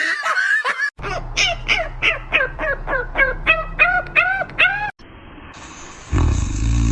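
An animal's short arched calls repeated about three times a second for a few seconds, then, near the end, a louder low steady hum.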